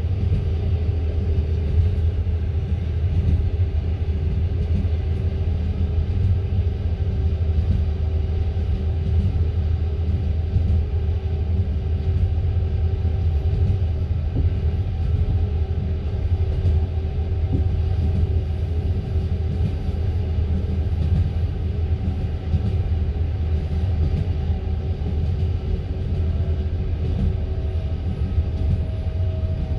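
A passenger train carriage running along the track, heard from inside: a steady low rumble of wheels and bogies, with a faint steady hum above it.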